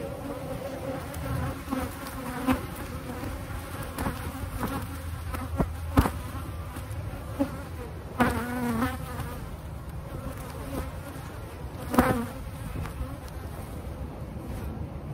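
Honeybees buzzing steadily around an opened hive, with a few sharp knocks, the loudest about six and twelve seconds in.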